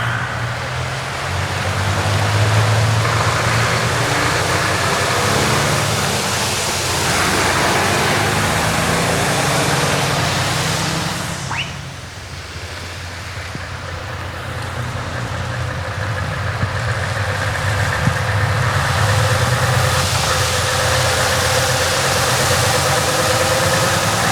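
Heavy truck diesel engines running as trucks drive past, a loud steady engine sound with a deep rumble. About halfway through it briefly drops away with a short rising whistle, then builds again as another truck approaches.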